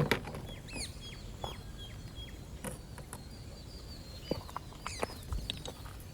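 Small birds chirping: many short, high calls that each drop in pitch, over a steady outdoor background, with scattered sharp clicks and knocks, the loudest right at the start.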